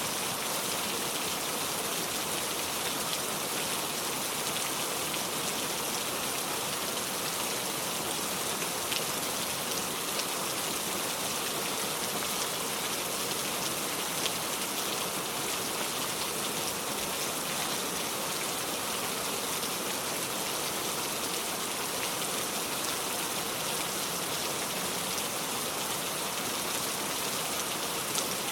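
Steady heavy rain, with scattered drops ticking through the even hiss.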